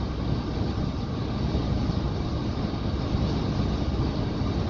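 Scania tanker truck driving at road speed: a steady low rumble of engine and tyre noise.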